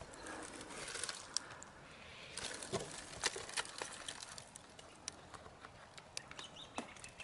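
Faint, irregular rustling and crackling of dry leaves and twigs, with scattered sharp clicks, in two busier spells about a second apart.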